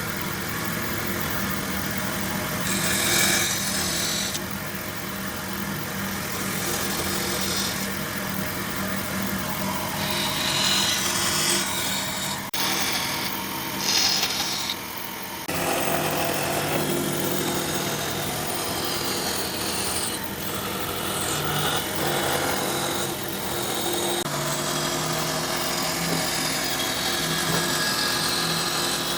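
Woodworking power tools running on wood: a steady motor hum with the scraping, rasping noise of the tool working the wood. The sound changes abruptly a few times as one tool gives way to another.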